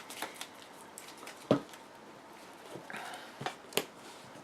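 A few sharp taps of trading cards being laid or slid onto a play mat, the loudest about a second and a half in and two more close together near the end, with a faint brief whine about three seconds in.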